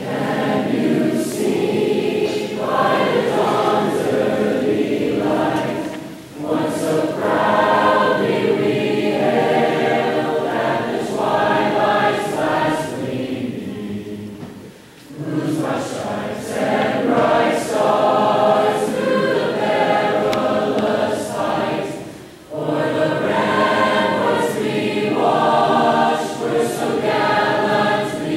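A school choir singing in long phrases, with brief pauses between phrases about every eight seconds.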